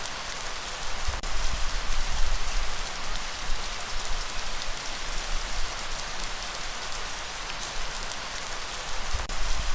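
Steady rainfall, a dense even hiss of drops, with a deep low rumble that swells about a second in and again near the end.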